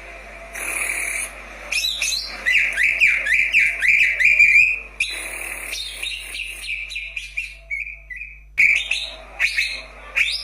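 Greater green leafbird (cucak ijo) singing: a fast run of whistled, chirping notes, then a slower string of notes, and a few sharp separate calls near the end.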